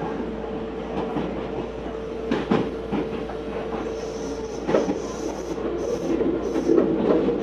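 Inside a Meitetsu 4000 series electric train running along the line: steady running noise with several clacks of the wheels over rail joints between about two and five seconds in.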